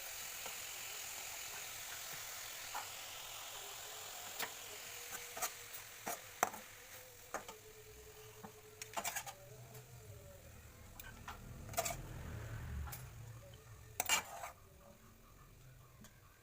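Stir-fry of tempeh and green chillies sizzling in a wok, with scattered clinks and scrapes of the spatula against the pan. The sizzle fades about halfway through, and a louder knock on the pan comes near the end.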